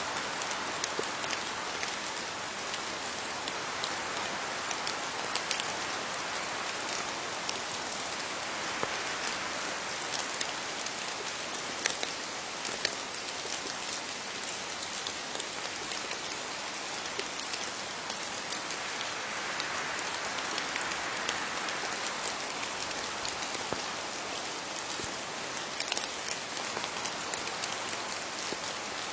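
Steady rain falling on leaves, a constant patter with scattered louder drops.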